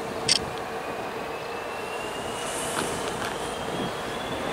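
An approaching train running along the line, with a thin whine that rises slowly in pitch and a sharp click near the start.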